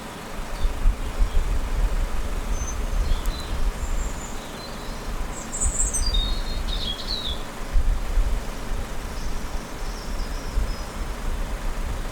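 Birds chirping in short calls, busiest near the middle, over an uneven low rumble.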